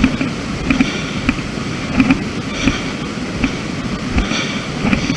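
Hiker's footsteps crunching on rock strewn with loose pebbles, about one and a half steps a second, over a steady background hiss.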